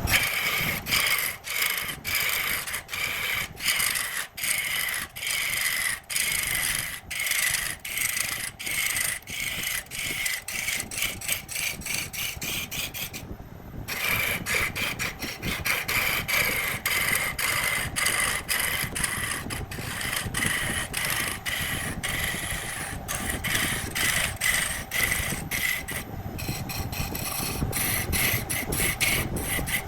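Wood being rasped or abraded by hand in quick, regular back-and-forth strokes, about two a second, with one short pause about halfway through.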